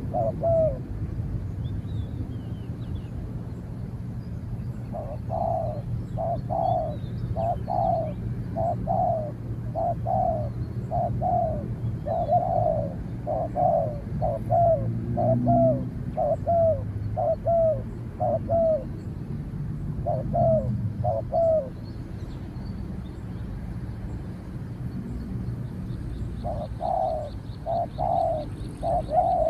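Spotted doves cooing, bout after bout of short, slightly falling coos with pauses of a few seconds between bouts, over a steady low rumble. A faint fast high ticking joins near the end.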